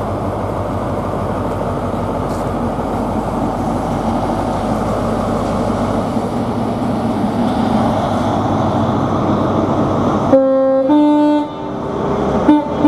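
Class 43 HST diesel power car with its MTU engine working hard as the train pulls away, a loud steady running noise. About ten seconds in the train's horn sounds a two-note blast, followed by a short toot near the end.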